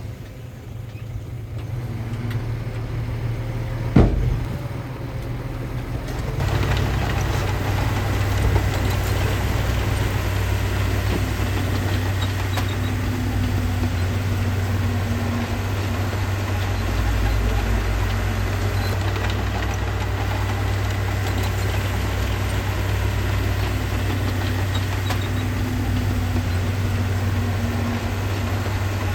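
Diesel engine of heavy earthmoving machinery running, with one sharp knock about four seconds in. About six seconds in it becomes louder and fuller, as if working harder, and then runs on steadily.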